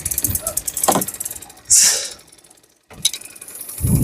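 Fishing reel clicking rapidly as line is reeled in or pulled off against the drag during a fish fight, with a short loud hiss about two seconds in. Wind buffets the microphone near the end.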